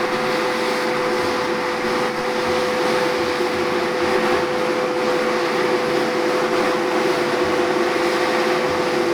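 Heavy logging machinery's diesel engine running steadily under load, with a constant whine over the engine noise.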